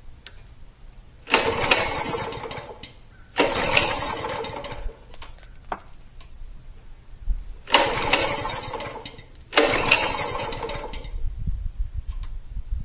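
Four pulls on a mini bike's recoil starter, the small engine turning over briefly each time and spinning down without running.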